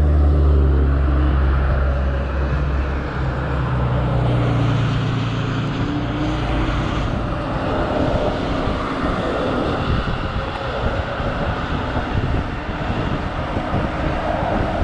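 Wind rushing and buffeting over the microphone while riding an electric scooter at speed, with road noise; a low steady hum in the first few seconds fades out.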